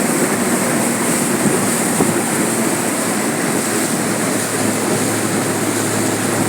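A small river boat's engine running steadily under way, with a constant rush of water and air noise.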